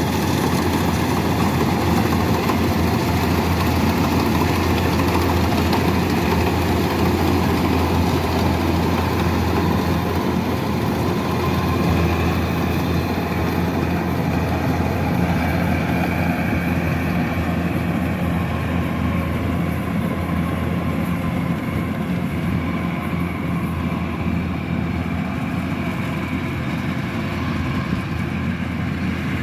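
Kubota DC-108X rice combine harvester running steadily, its diesel engine and threshing machinery making a continuous low hum. The sound gets slightly quieter and duller in the second half.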